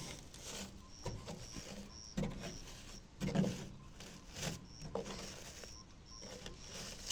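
Trapped bird giving a run of short, high peeps, roughly two a second. Irregular knocks and rustles come on top, the loudest a little over three seconds in.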